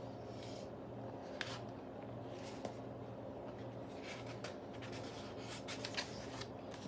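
Faint paper rustling and rubbing from a picture book's cover and pages being handled, in a few short scratchy touches over a low steady hum.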